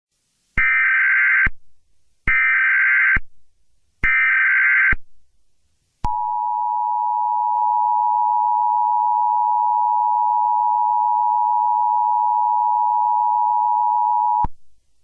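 Emergency Alert System header: three bursts of warbling digital data tones, each about a second long with a short gap between, then the two-tone attention signal, a steady dual tone held for about eight seconds that cuts off suddenly.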